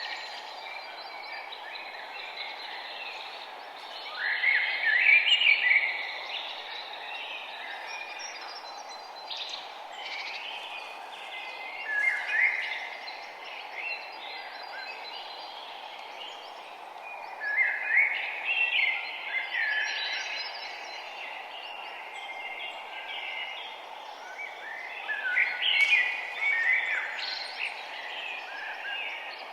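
Songbirds singing in bursts of chirps every several seconds over a steady, low rushing background noise.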